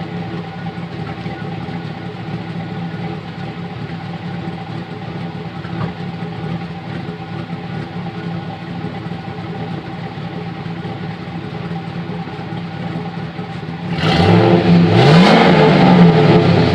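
Chevy truck LS V8 with a custom cam and bone-stock exhaust idling steadily, then revved near the end, its pitch rising and falling back.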